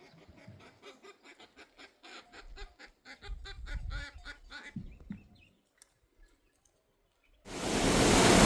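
Geese honking in a rapid run of short calls that stops after about five seconds. After a brief hush, the loud steady rush of a waterfall cuts in suddenly near the end.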